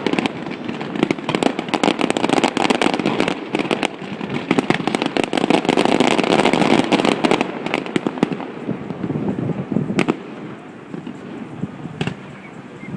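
Fireworks display: loud aerial shells bursting in rapid succession with dense booming and crackle. The barrage thins out about two-thirds of the way through, leaving a few single bangs near the end.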